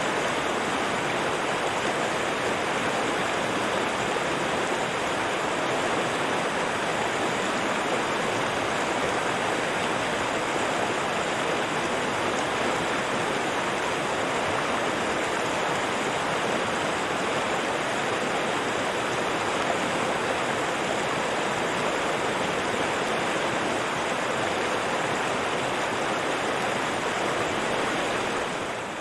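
River water flowing, a steady, unbroken wash of water noise.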